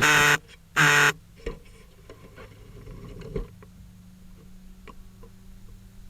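Two short, loud electronic buzzer beeps in the first second, followed by a few light clicks and a faint steady hum.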